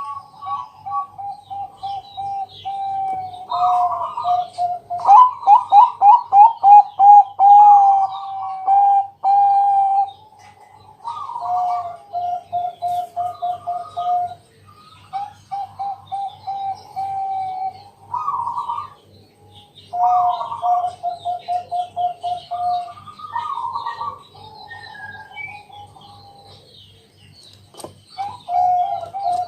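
Zebra dove (perkutut, Bangkok strain) cooing, phrase after phrase of rapid stuttering coo notes with short pauses between them, loudest about five to ten seconds in. A faint steady low hum runs underneath.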